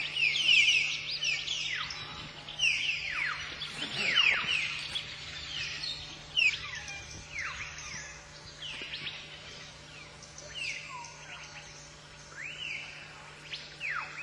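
Common hill myna whistling and chirping: a quick series of sharp notes that sweep downward in pitch, thick for the first four seconds, then sparser and softer. A faint steady hum lies underneath.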